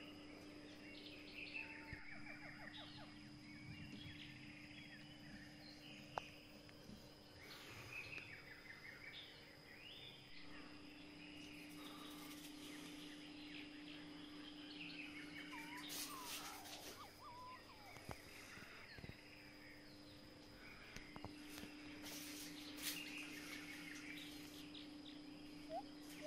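Faint birds chirping and calling on and off over a steady low hum, with a few sharp clicks.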